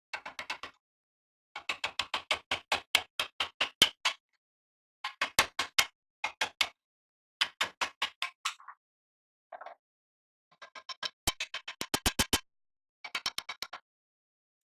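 Bursts of rapid, sharp tapping strikes, about five to eight a second, stopping and starting with short pauses between groups.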